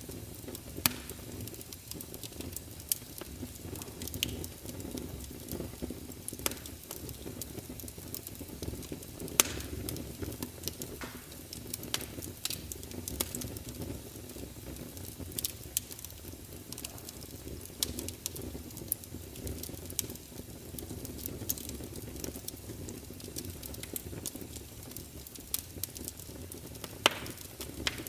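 Wood fire crackling: a steady low rumble of burning logs with scattered sharp pops, a few louder ones about nine seconds in and near the end.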